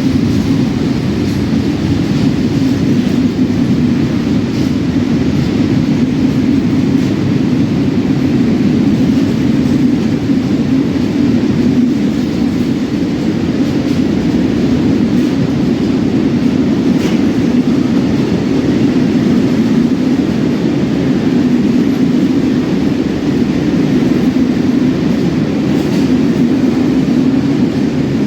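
A train running past at a steady pace, a continuous rumble that holds level throughout, with a few faint clicks.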